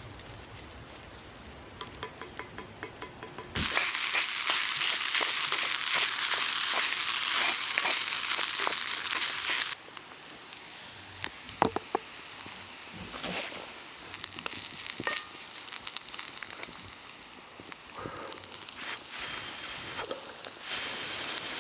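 Fried rice frying in hot oil in an iron pot over a wood fire. A loud, even sizzle starts suddenly a few seconds in and cuts off about six seconds later, then gives way to quieter sizzling and crackling with scattered clicks and knocks.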